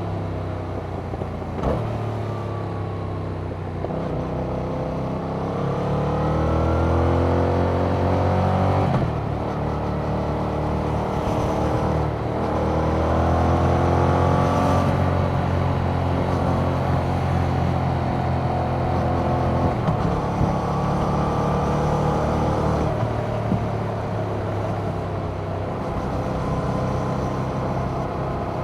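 Yamaha MT-07's 689 cc parallel-twin engine through its stock exhaust, riding hard up a mountain road. The engine note climbs repeatedly under throttle and drops at gear changes, about a third of the way in, then again shortly after, and again about two thirds in.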